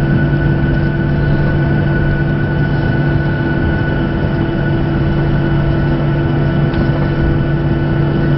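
Boeing 737-800's CFM56 jet engines running with a steady drone and several constant tones; the pitch does not rise.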